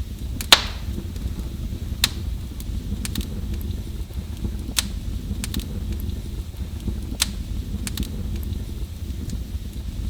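Fireplace fire burning with a steady low rumble and sharp crackling pops, the loudest about half a second in and a few more spaced a couple of seconds apart.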